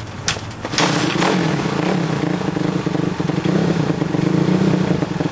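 Dirt bike engine starting up: a couple of sharp clicks, then the engine catches about a second in and runs steadily.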